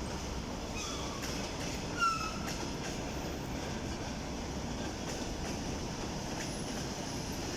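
Passenger train hauled by an EP1M electric locomotive rolling along with a steady rumble and scattered wheel clicks. About two seconds in there is a brief high squeal, falling slightly in pitch.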